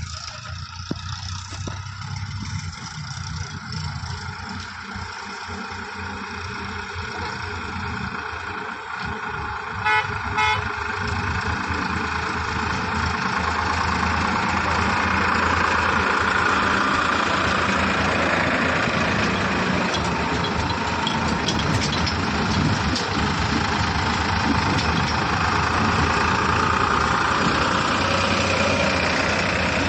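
Heavy diesel engine running steadily, growing louder from about twelve seconds in, with two short horn beeps about ten seconds in.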